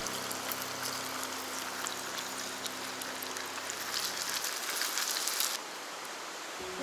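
Char bones deep-frying in hot oil: a steady sizzling hiss with scattered sharp pops, the hiss dropping away abruptly about five and a half seconds in.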